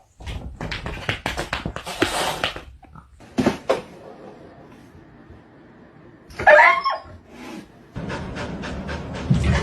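Pet noises: scattered taps and scuffles, then a short wavering cry from a pet about six and a half seconds in.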